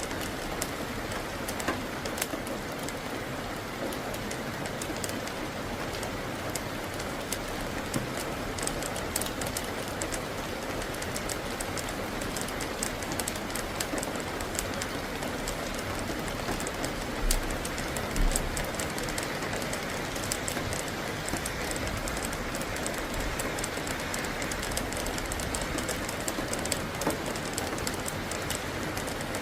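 Steady rain falling, with many drops ticking on nearby surfaces. Two brief low thumps come a little past the middle.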